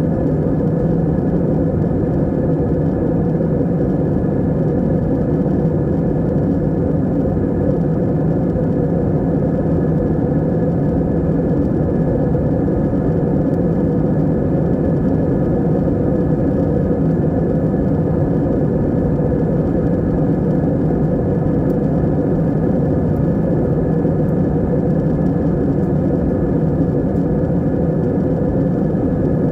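Airplane in flight: a steady, unchanging low drone of engines and rushing air.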